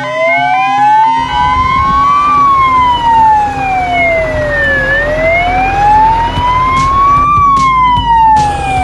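Fire engine siren wailing: a slow rise and fall in pitch, each sweep lasting about two and a half seconds, over a low engine rumble that comes in about a second in.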